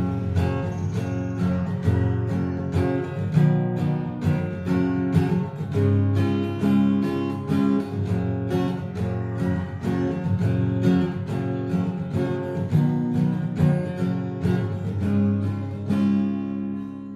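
Acoustic guitar music, strummed and plucked with a steady rhythm.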